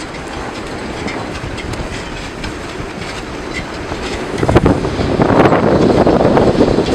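Blizzard wind: a steady rushing noise that grows much louder about four and a half seconds in, with a few knocks as it surges.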